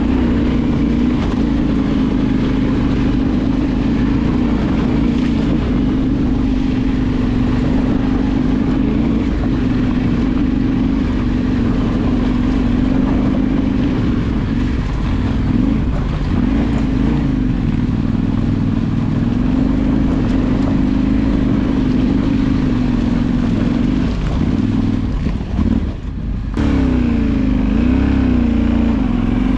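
Off-road motorcycle engine running under way, its pitch rising and falling with the throttle, with a brief dip about 26 seconds in as the throttle is closed.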